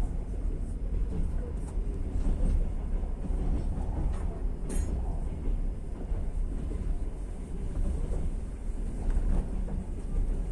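Passenger train running along the rails, a steady low rumble of the wheels heard from inside the carriage, with a brief high squeak about halfway through.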